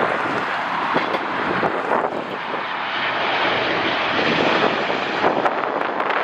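Jet airliner's engines passing close by, a loud, steady rushing noise, with wind buffeting the microphone.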